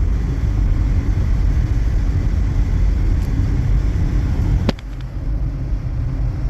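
Steady low road and engine rumble inside the cabin of a 2024 Chevy Trax, with its turbocharged three-cylinder, cruising at highway speed. A single sharp click comes about four and a half seconds in, after which the rumble briefly drops and then builds back up.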